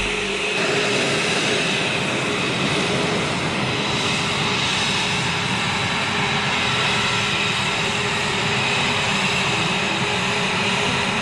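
Jet aircraft engine running steadily: an even rushing noise with a steady high whine over it.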